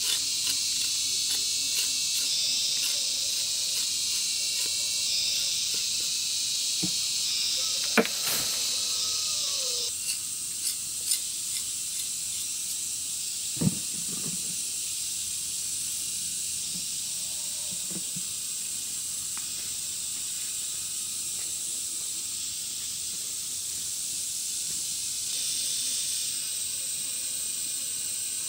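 A steady high-pitched insect chorus, with a few scattered knocks, the sharpest about eight seconds in and another near fourteen seconds.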